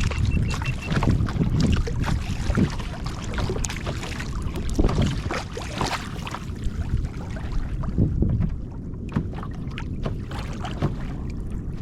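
Wind buffeting the microphone, with irregular water splashing and slapping around a kayak on the open sea.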